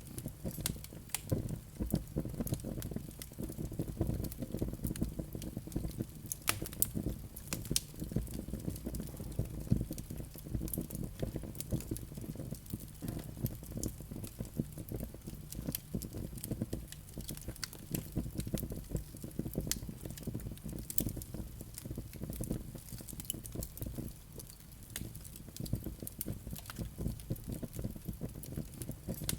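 Wood fire burning in a fireplace, crackling with frequent irregular sharp pops and snaps over a steady low rush of flames.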